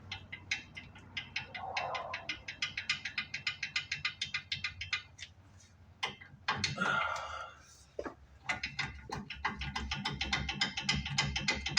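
Hand ratchet wrench clicking rapidly as a nut is run down onto a threaded stud, in two long runs of strokes broken by a brief scrape partway through.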